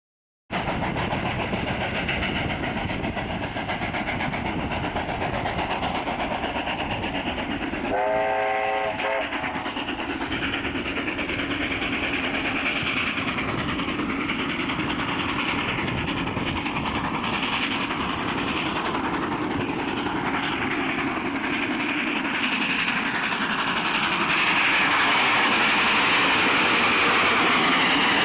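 A train running on the rails with steady wheel clatter and rumble. There is a short whistle blast about eight seconds in, and the sound grows louder near the end.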